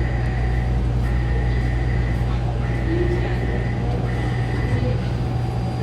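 Taipei Metro train running between stations: a steady low rumble, with a thin high whine that cuts in and out several times during the first five seconds.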